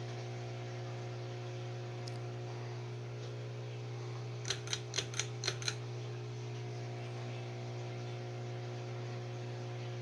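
1987 SMC Laguna 36-inch ceiling fan running with a steady motor hum. About halfway through, six quick clicks come in just over a second.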